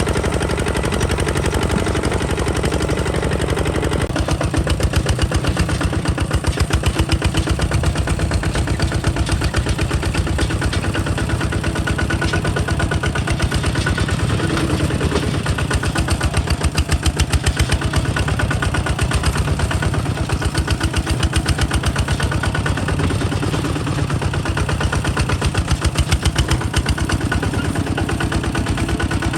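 Kubota ZT155 DI single-cylinder diesel engine of a two-wheel walking tractor running steadily, a fast, even chugging of firing pulses.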